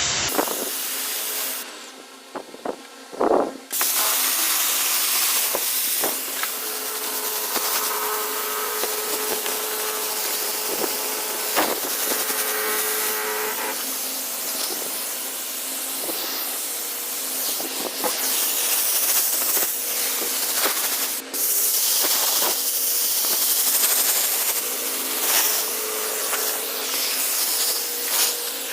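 Water spraying from a hand-held nozzle onto plants, a steady hiss that breaks off briefly about two seconds in.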